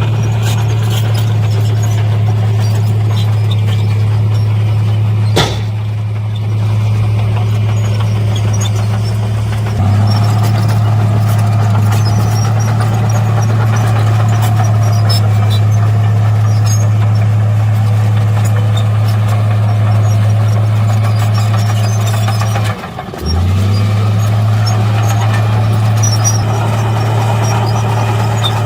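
Diesel engine of heavy earthmoving machinery running steadily with a deep, even hum, broken by a sharp knock about five seconds in and a brief drop in level around twenty-three seconds in.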